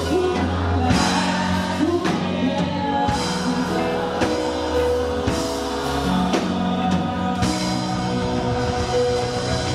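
Live gospel worship music: a band with bass and drum kit, steady drum strokes about once a second, with singing.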